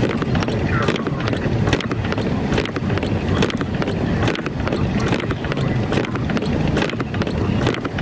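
Car cabin noise while driving through a blizzard: a steady low rumble of engine, road and wind, with many irregular sharp ticks throughout.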